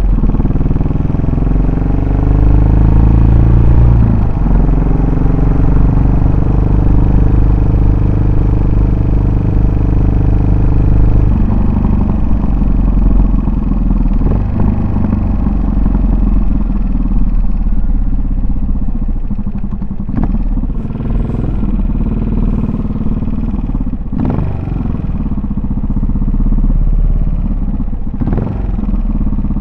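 Yamaha SR400's single-cylinder four-stroke engine and exhaust under way. It pulls up through the revs in the first few seconds, shifts, and holds a steady pace. About eleven seconds in it drops back and runs lower and somewhat quieter, with a few short knocks.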